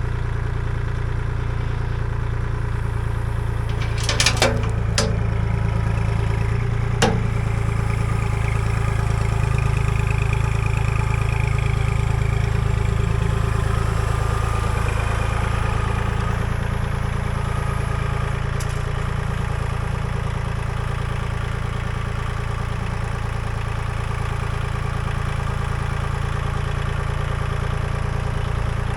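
Engine idling steadily, with a few sharp clanks about four to five seconds in and another about seven seconds in.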